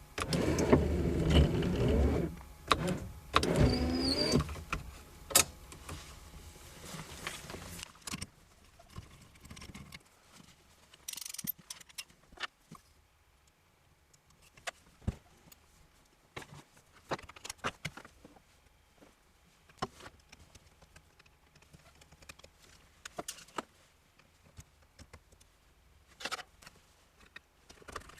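A small electric motor whirring for about four seconds with a wavering pitch, then scattered light clicks and knocks of hand tools working on a car's steering column.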